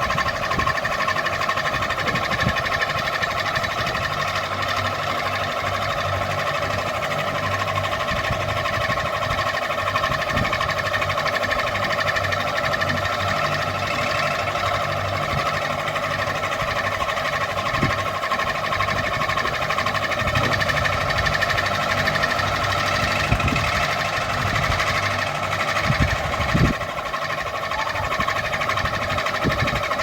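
Ceiling fan running steadily: an even motor hum with a constant higher whine, and a few faint knocks here and there.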